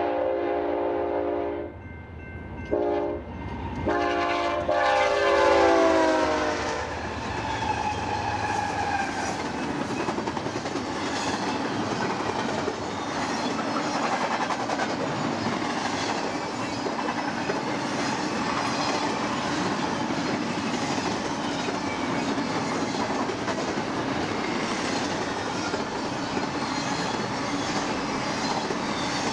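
BNSF freight train locomotive's multi-chime air horn sounding several blasts, the last one dropping in pitch as the locomotive passes. Then a steady clatter and rumble of freight cars rolling by on the rails.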